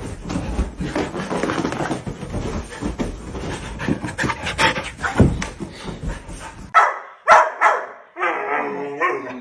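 Dog barking a few short times, about seven seconds in, after a stretch of noisy rumbling.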